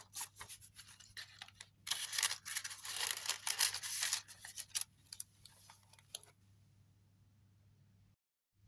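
Pages of a handmade junk journal made of grunged paper, rustling and crinkling as they are turned and handled. The rustling comes in irregular bursts and stops about six seconds in.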